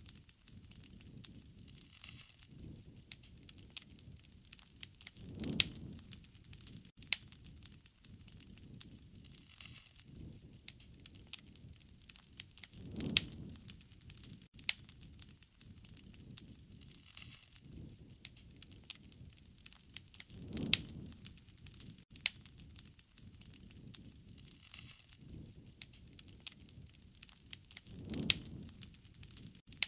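Wood fire crackling and popping with many sharp snaps, and a low rushing swell that rises and falls about every seven or eight seconds.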